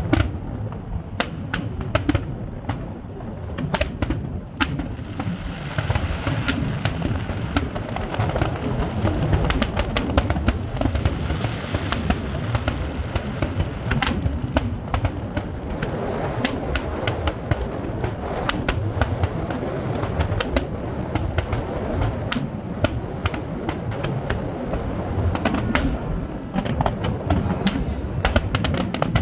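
Fireworks going off: many sharp pops and crackling bangs scattered throughout, over a continuous low rumble.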